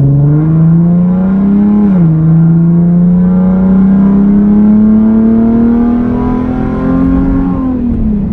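Nissan 370Z's straight-piped 3.7-litre V6 under a full-throttle pull on a still-cold engine. The revs climb, drop at an upshift about two seconds in, then climb steadily through the next gear before falling away near the end.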